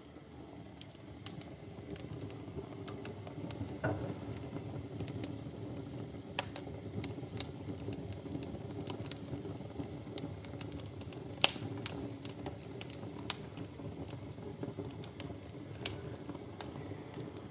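Wood fire burning in a fireplace insert, crackling with irregular sharp pops over a steady low rumble, one louder pop a little past the middle.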